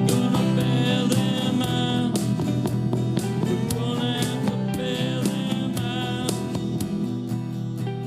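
Country-style band music without vocals: strummed guitar over a steady beat with a lead instrument line, gradually getting quieter.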